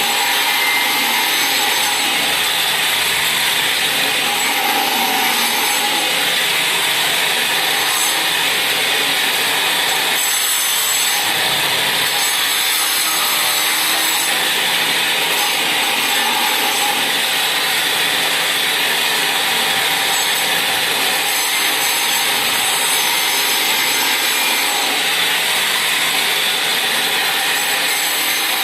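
A power tool running steadily, a dense, even noise that holds at one level without pausing.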